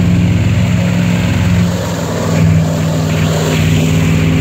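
Airboat's engine and air propeller running loud and steady, the engine note shifting a little about halfway through.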